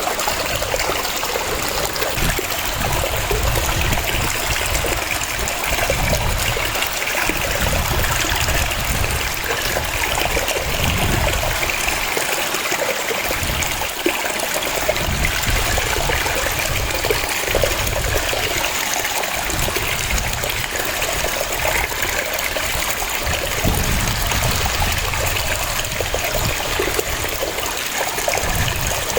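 Waterfall: a steady rush of falling and splashing water, with a low rumble underneath that swells and fades.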